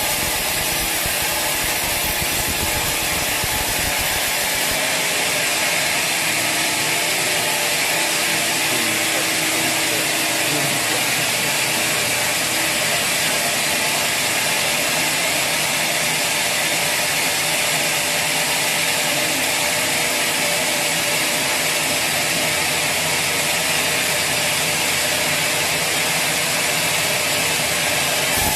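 Sawmill saw cutting steadily through a log, a loud, even rasping noise; the low rumble drops away about five seconds in.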